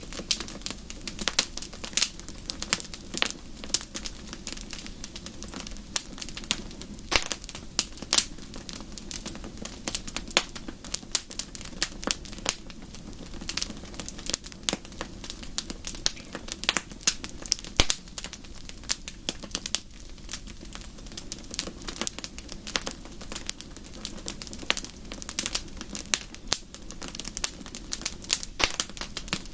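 Wood fire crackling in a fireplace: dense, irregular sharp pops and snaps over a steady low rush of the flames.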